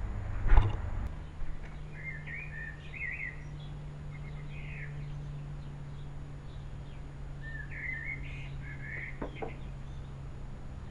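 A thump about half a second in, then two short bursts of small-bird chirping, a few seconds apart, over a low steady hum.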